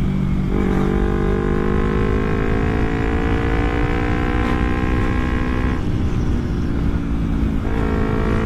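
Carburetted Kawasaki Ninja 250 parallel-twin engine through an aftermarket Akrapovic exhaust, heard from the moving bike as it pulls through the gears: the pitch rises steadily, breaks for a gear change about six seconds in, then picks up again. Strong wind buffets the microphone throughout.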